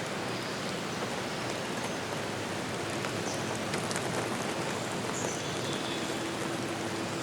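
Steady rush of falling water, with a few brief, high bird chirps over it.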